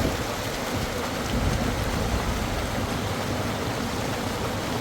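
Steady rush of cascading water from a waterfall, an even noise with no breaks.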